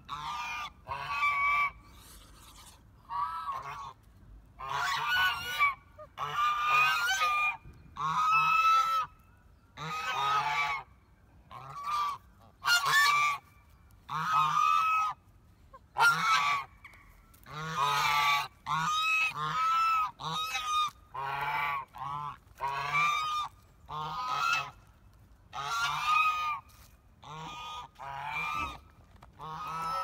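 Honking bird calls repeated roughly once a second with short gaps between them. Each call is brief and pitched, with a slight rise and fall.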